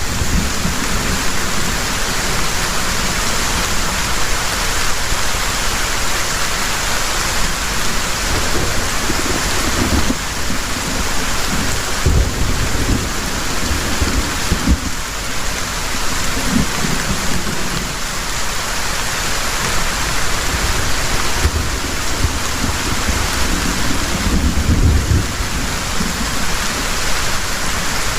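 Heavy rain falling steadily, a dense even hiss, with low rumbles of thunder coming and going every few seconds.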